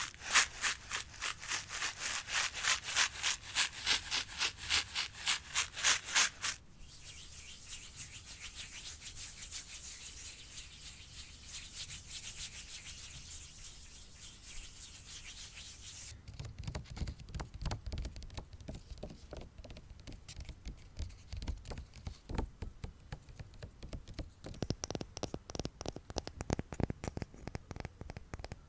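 Close-miked ASMR trigger sounds: quick rhythmic scratching or brushing strokes, about three or four a second, give way after about six seconds to a steady soft hiss of rubbing, and about halfway through change to soft, low, rapid tapping.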